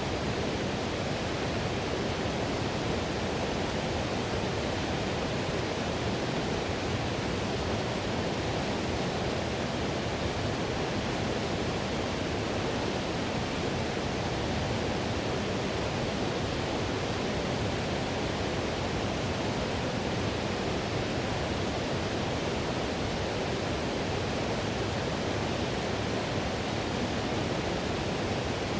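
River whitewater rushing steadily, an even, unbroken roar of water.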